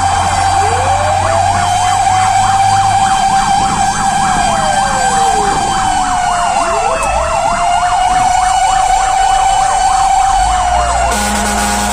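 Fire truck sirens on an emergency run: a wailing siren that winds down and climbs back up twice, with a fast warbling yelp over it and the truck's engine running underneath. A short blast cuts in near the end.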